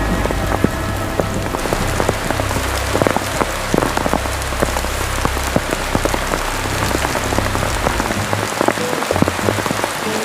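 Heavy rain falling, with many large drops striking close by as separate taps over a steady hiss. A low rumble runs underneath and stops about eight seconds in.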